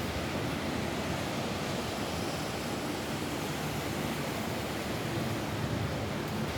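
Steady rain falling on a roof: a dense, even hiss with no separate drops standing out.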